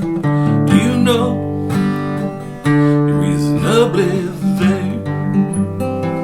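Music: an acoustic guitar strumming chords, with a wavering melody line rising above it twice.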